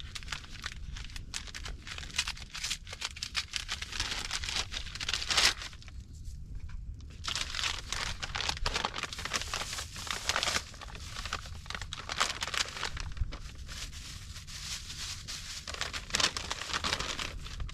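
Dense crinkling and crackling rustle of material being crumpled and handled, as when fire-starting material is being prepared, with a brief lull about six seconds in.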